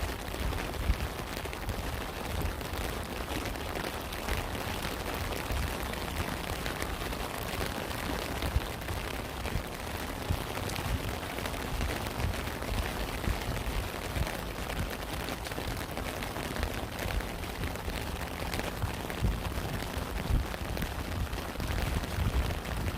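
Steady rain, with many separate drops striking close by and an uneven low rumble underneath.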